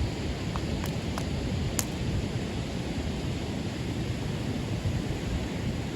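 Steady rushing noise of wind buffeting the microphone, with a few faint sharp clicks in the first two seconds.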